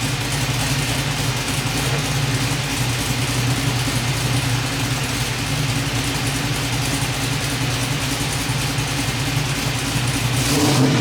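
5.3-litre LM7 V8 running steadily through a freshly installed Magnaflow 15896 exhaust; it picks up in a short rise in loudness near the end.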